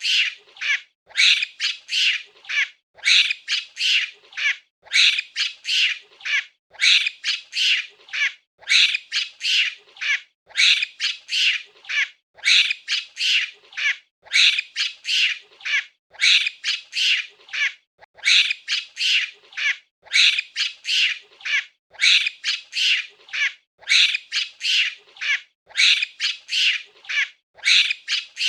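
Monkey calls: runs of short, high-pitched cries in quick succession, the groups coming back about every two seconds in an even, repeating pattern.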